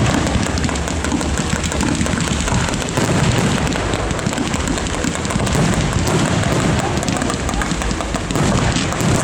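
Fireworks display going off in a dense, unbroken barrage of bangs and crackles over a low rumble of booms.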